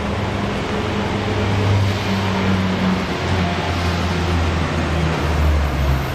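Steady rumble of motor traffic: low engine tones that shift as vehicles pass, over a wash of road noise.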